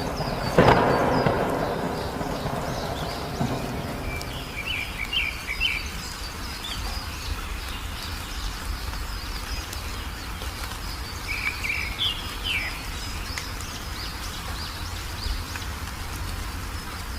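Steady rain with a loud thunderclap about a second in that rumbles away over the next few seconds. A small bird gives two short bursts of chirps, one a third of the way in and another just past the middle.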